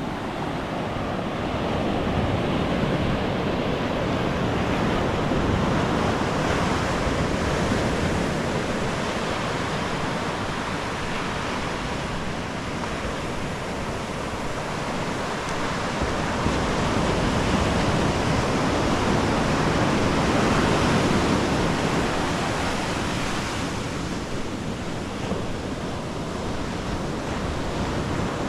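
Ocean surf on a sandy beach, a continuous rush of breaking and washing waves that swells louder twice as sets come in.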